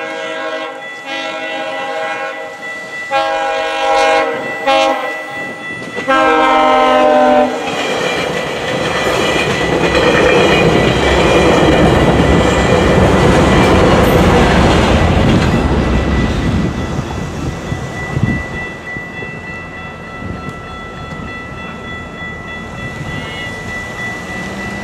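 GO Transit bilevel commuter train sounding its air horn in several blasts for a level crossing, the last one long, then the train rumbling and clattering past, loudest about halfway through and easing off near the end. A crossing bell keeps ringing throughout.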